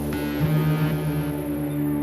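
Ambient electronic music: sustained low synthesizer tones with faint high gliding tones above.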